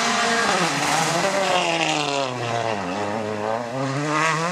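Rally car engine running hard under load, its pitch rising and falling through gear changes, dropping to a low point about three seconds in and then climbing again as it accelerates.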